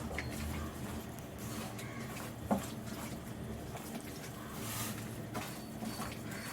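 Raw chicken pieces being mixed by hand with yogurt and spice paste in a bowl: soft wet squishing with a few light clicks.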